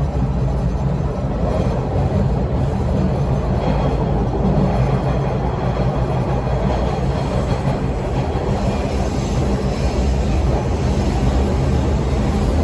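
Steady, loud running noise inside a moving Bombardier T1 subway car: the low rumble of wheels on the track, with continuous rattling and knocking vibrations from the car.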